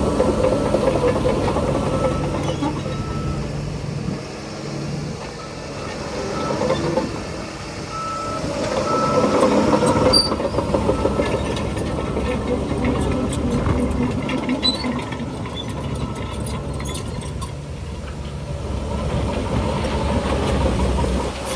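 Heavy diesel machinery running at work: the engines of a bulldozer and dump trucks rise and fall in load. A reversing alarm beeps at intervals, mostly in the first half.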